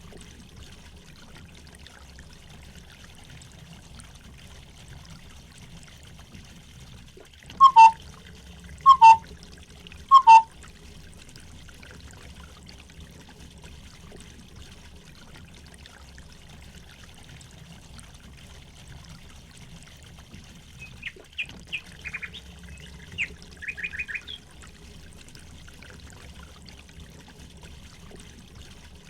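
Steady trickling stream water with birds: three loud, short calls about a second apart, then later a quick run of high chirps.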